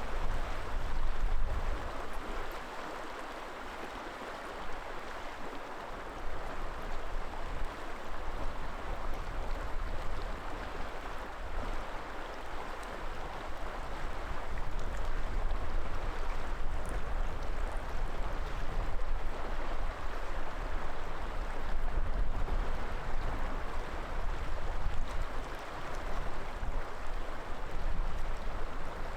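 River water flowing and rushing steadily, with uneven low rumbling from wind gusting on the microphone.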